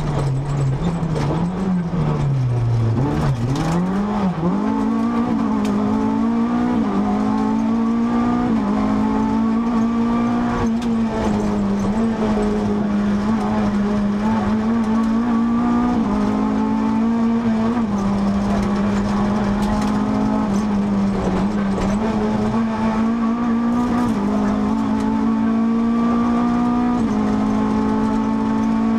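Renault Clio RS rally car's 2.0-litre four-cylinder engine heard from inside the cabin, running hard at high, fairly steady revs. About two seconds in, the pitch drops as the driver lifts off, then climbs again as he gets back on the throttle. Small rises and falls in pitch follow through the rest of the run.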